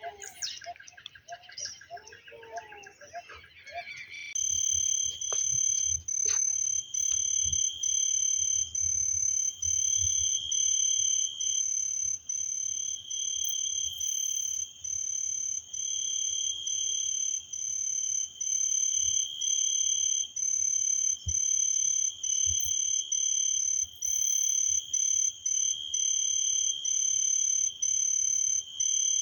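Frogs calling in a loud, steady high-pitched chorus, with a note that swells and fades about every second and a half. It starts abruptly about four seconds in, after a few seconds of bird chirping.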